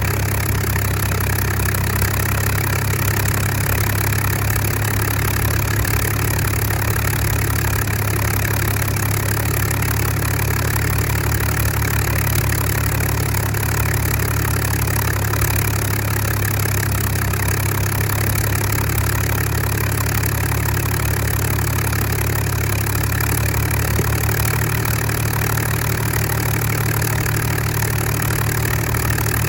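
Supermarine Spitfire Mk XIV's Rolls-Royce Griffon V12 aero engine running steadily on a ground engine run, its note even and unchanging.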